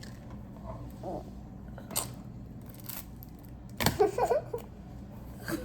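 Chewing and mouth clicks from a mouthful of gum: a few sharp wet clicks spaced about a second apart, with a short muffled vocal sound about four seconds in.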